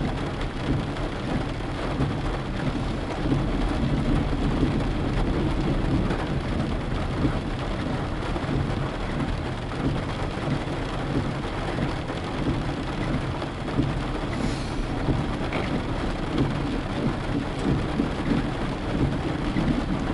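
Steady rain falling on a car, a continuous hiss over a low rumble from the moving car.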